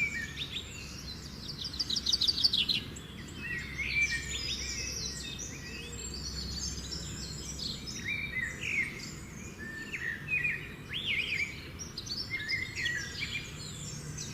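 Several small birds singing and chirping at once, overlapping calls with quick trills and short rising and falling notes.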